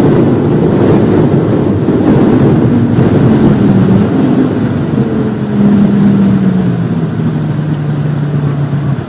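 Volvo V50 T5's turbocharged five-cylinder engine heard from inside the cabin, with strong wind and road noise at speed. The engine note holds steady at first, then falls through the second half as the car brakes hard from about 157 to 72 km/h for a corner.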